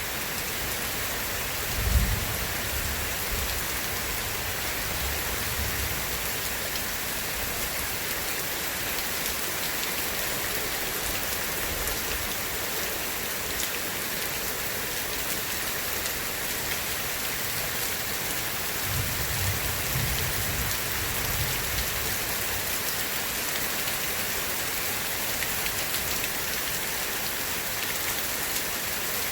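Steady heavy rain hissing, with thunder: a sharp crack rolling into low rumbling about two seconds in, and a second rumble of distant thunder near the two-thirds mark.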